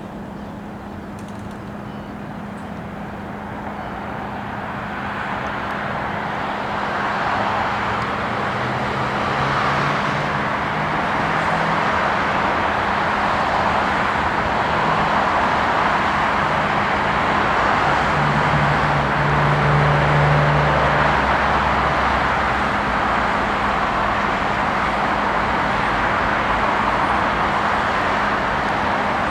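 Train passing close by: a steady rush and rumble of wheels on the rails that grows louder over the first several seconds and then holds, with a low engine hum underneath.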